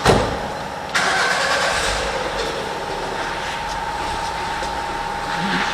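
A sharp click, then a car engine starting about a second in and settling to a steady idle.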